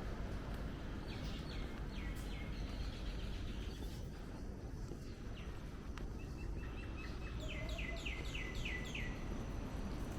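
Birds chirping over a steady low background rumble: a few short downward-sliding chirps about a second in, then a quicker run of about six near the end.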